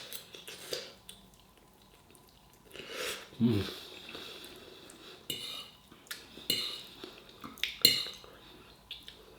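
Cutlery clinking and scraping against a plate during a meal, several sharp clinks in the second half. There is a short low sound falling in pitch about three and a half seconds in.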